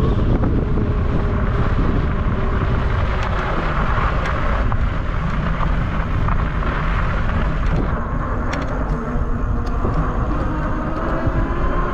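Wind buffeting the microphone on a 750 W fat-tire electric bike at speed, with a faint whine that drifts slightly in pitch, and a few light ticks in the middle.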